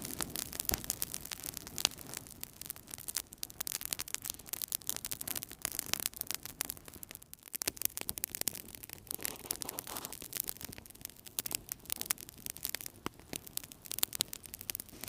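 Wood fire burning in a fireplace, crackling with many small sharp pops and snaps at irregular moments over a soft steady hiss.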